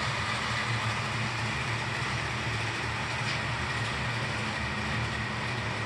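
HO-scale model subway trains running on the layout: a steady whir of their motors and wheels rolling on the track.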